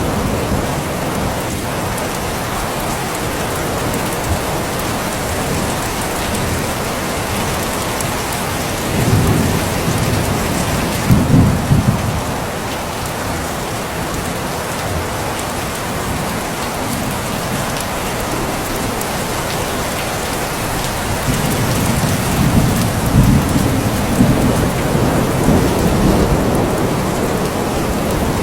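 Steady heavy rain falling, with low rumbles of thunder rolling in twice, about a third of the way in and again after two thirds.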